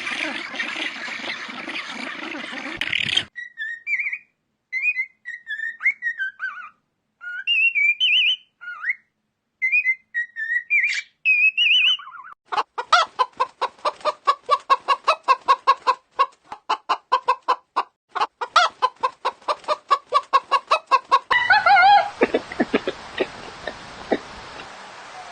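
A loud rushing noise for the first few seconds. Then a bird gives short, high chirping calls, and a chicken clucks in a rapid, even series of about five clucks a second for several seconds.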